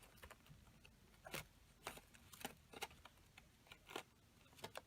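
Faint handling noise of paper craft pieces on a tabletop: about six soft, separate clicks and taps spread over a few seconds, otherwise near silence.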